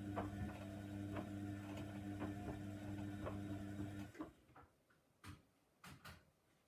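Hoover Nextra washer dryer's motor turning the drum with a steady hum, with regular clicks about twice a second as the load knocks in the drum. About four seconds in the motor stops abruptly, as at a pause between tumbles, and a few single knocks follow as the drum settles.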